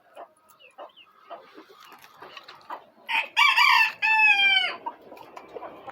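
Shamo rooster crowing once, about three seconds in, the crow lasting under two seconds and ending on a held note that drops slightly in pitch. Softer short clucks come before it.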